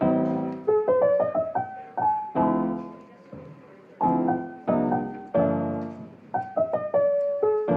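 Background piano music: full chords struck and left to ring out, with short runs of single melody notes between them.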